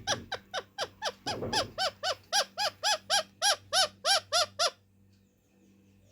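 Indian ringneck parakeet giving a rapid run of about fifteen short, arched screeches, roughly three a second, which stop abruptly near five seconds in. A couple of low thumps sound under the first calls.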